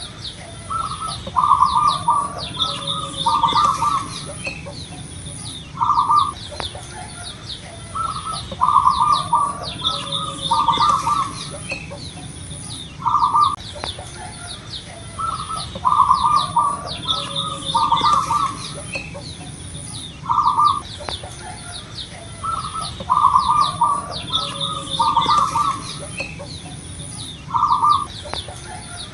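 Zebra dove (perkutut) cooing: phrases of several short, deep notes repeated about every seven seconds, with small birds chirping behind and a steady high-pitched tone.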